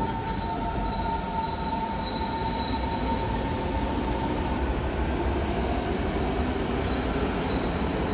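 Berlin S-Bahn train on the station's elevated tracks, running with a steady low rumble and a high wheel squeal that is strongest in the first few seconds and then fades.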